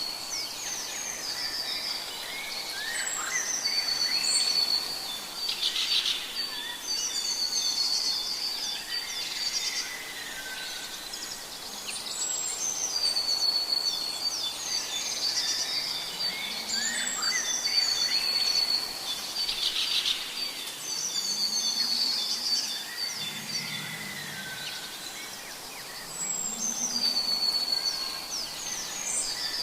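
Several birds calling and chirping, with one high whistled phrase and trill recurring about every eight to nine seconds. Faint low calls come a few times in the second half.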